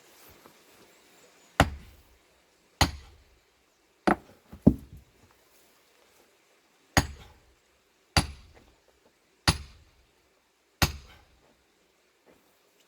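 A hammer striking to split a big plane-tree log for firewood: eight sharp blows at uneven gaps of about one to two seconds, each with a short ring. The log is not yet giving way.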